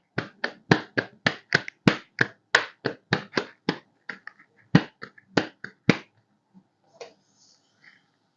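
Quick sharp slaps, about three a second, which grow uneven after about four seconds and stop near six seconds: hands clapping a cooked paratha.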